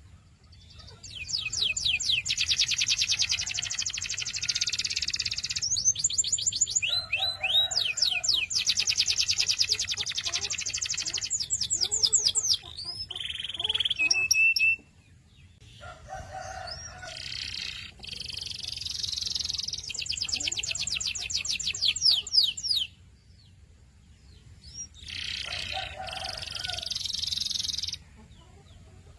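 Canary singing: long phrases of fast trills, each made of quickly repeated high notes, broken by short pauses about fifteen and twenty-three seconds in.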